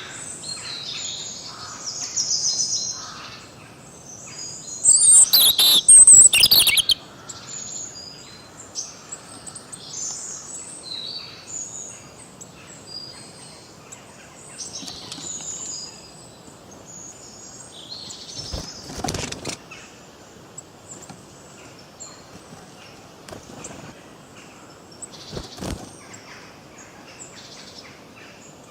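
Several songbirds chirp and sing in quick short phrases, overlapping throughout. About five seconds in comes a loud, close burst of sound lasting a couple of seconds. Two shorter bursts follow later on.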